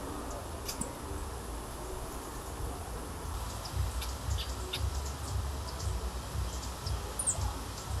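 Small birds giving short, high chip notes, scattered at first and more frequent in the second half, with one thin falling note near the end, over a steady low rumble.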